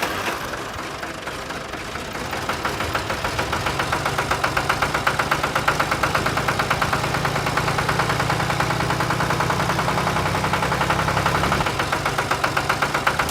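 Small single-cylinder diesel engine of a hand tractor running with a rapid, even knock. It grows louder over the first few seconds, then holds steady.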